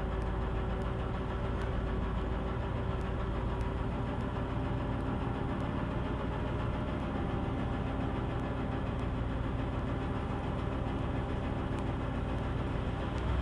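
Ford F600 grain truck's engine running steadily with the PTO engaged, driving the hydraulic hoist that raises the dump bed.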